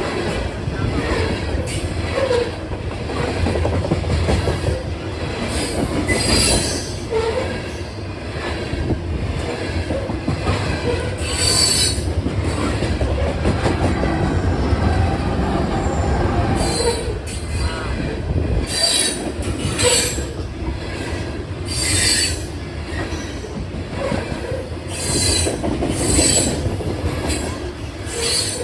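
A train rolling past at close range: a steady low rumble of cars on the rails, with short high-pitched screeches from the wheels coming every second or few.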